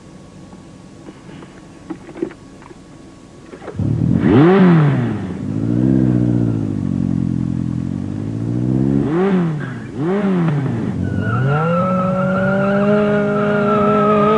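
A few soft clicks, then a sports car engine starting about four seconds in and revving hard. Its pitch climbs and falls away, then sweeps up and down twice more as the car accelerates off.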